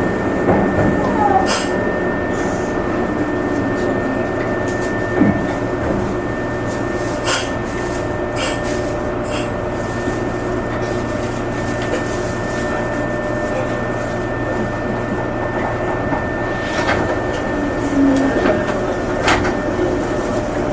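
Meitetsu limited express train running, heard from inside the car: a steady rumble with a constant whine, broken by a few irregular sharp clicks.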